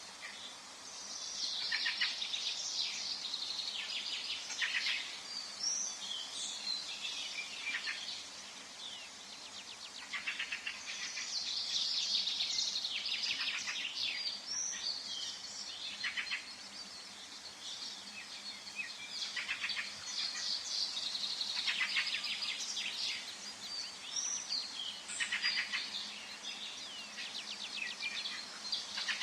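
Forest ambience of songbirds: several birds singing in bouts of fast high chirps and trills, with short lulls between, over a faint steady background.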